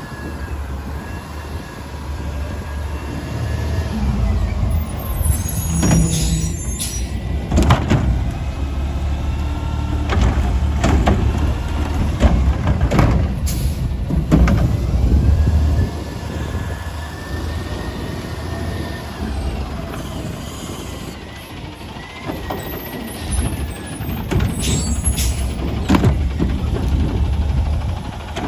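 Autocar ACX garbage truck with a McNeilus body at work: the diesel engine runs and revs up and down while a whine rises and falls, with several bangs and clanks of metal along the way.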